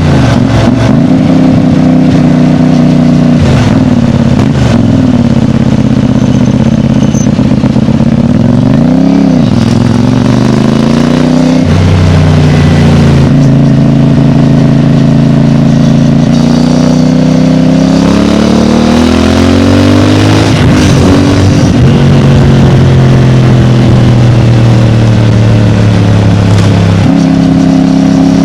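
CFMOTO 450MT parallel-twin engine running through its stock Euro 5 exhaust on the move, the engine note holding steady for long stretches and rising and dropping in pitch several times as the throttle and gears change.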